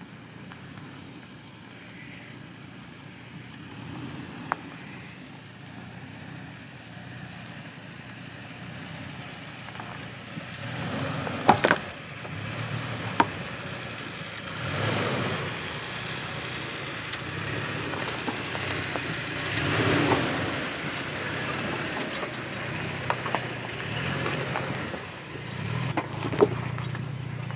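Pickup truck crawling slowly at low engine revs, a steady low hum, with several swells of scraping and crunching and a few sharp clicks and knocks along the way.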